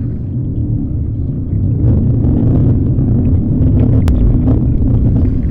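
A loud, low rumbling drone heard in the sky, the unexplained 'sky hum'. It swells louder about one and a half seconds in and then holds steady.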